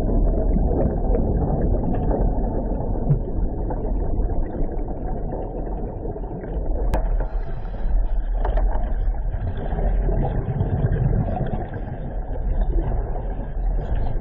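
Steady low engine rumble that runs without a break, with a single sharp click about seven seconds in.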